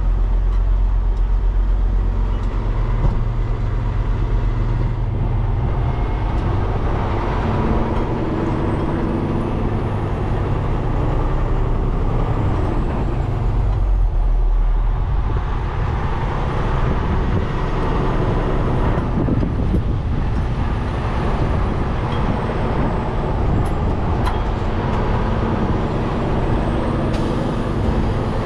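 Peterbilt 589 dump truck's diesel engine running under way, with road noise. The engine note shifts a couple of times, about five seconds in and again about halfway.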